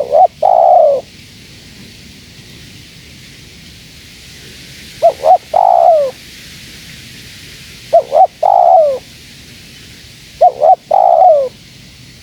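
Spotted dove cooing: four phrases a few seconds apart, each two short coos followed by a longer, falling coo.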